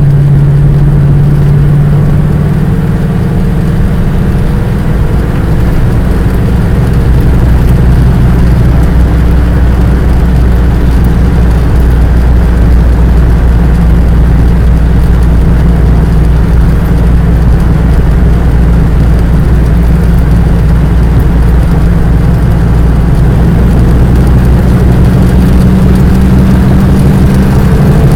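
Motor vehicle engine running steadily with road noise, a continuous low hum that shifts slightly in pitch a few seconds in.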